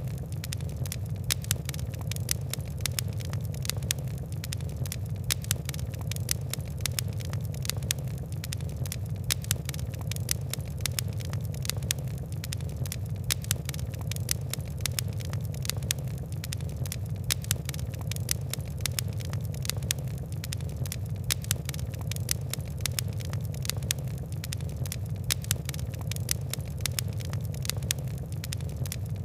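Coal and wood fire crackling: many small, sharp ticks and pops over a steady low rumble of the burning.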